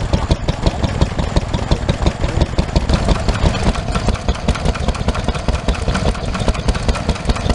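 Vintage stationary engines running at a steady idle, each firing stroke a quick, regular exhaust beat.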